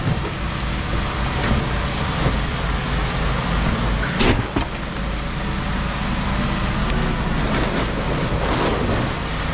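A vehicle engine running steadily, with a single sharp knock about four seconds in.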